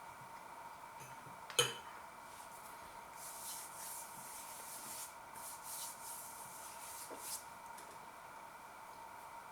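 Cutlery clinking once against a plate about a second and a half in, then several seconds of soft scraping noises, over a faint steady whine.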